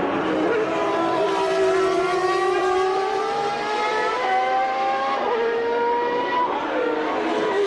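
A 1989 Formula One car's engine at high revs under acceleration. Its pitch climbs slowly and steps down abruptly twice in the second half, as it shifts gears.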